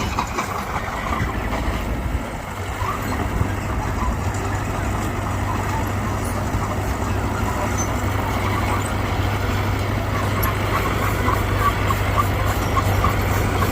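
Diesel engine of heavy earthmoving machinery running steadily under load, a constant low hum with a noisy mechanical rattle over it.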